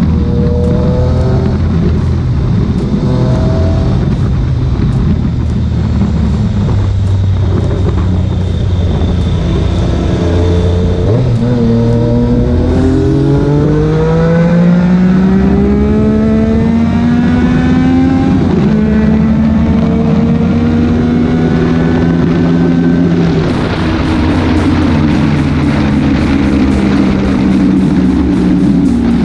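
Motorcycle engine accelerating hard, its pitch rising through several gears in turn, with a steadier engine drone before and after.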